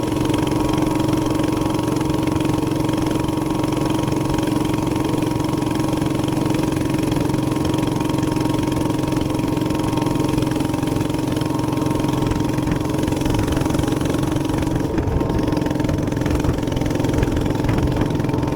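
Minibike's small single-cylinder gas engine running at a steady, high, unchanging pitch while cruising at speed.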